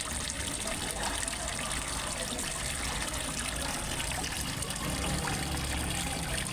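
Small waterfall running steadily into a fish pond: an even, unbroken splashing of water.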